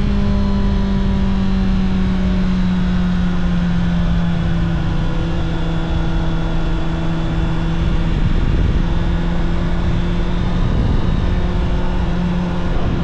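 Honda CBR650R's inline-four engine running at steady road speed, its pitch easing slowly down over the first several seconds and rising slightly near the end, with a low rumble underneath.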